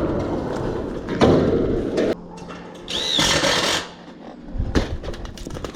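A power drill runs in one short burst of just under a second, its motor pitch rising and falling, amid knocks and clatter of work.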